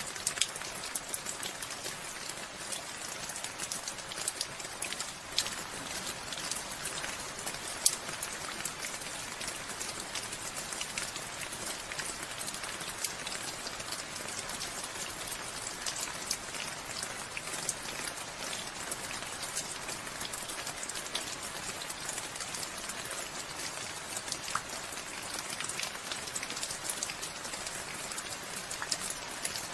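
Steady rain falling, with many close individual drops pattering sharply on surfaces.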